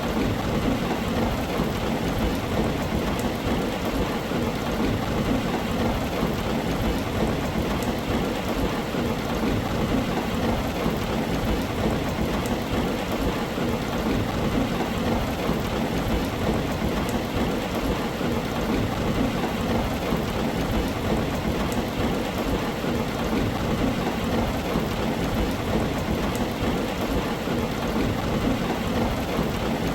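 Heavy rain drumming steadily on a tin roof, with a constant low rumble underneath.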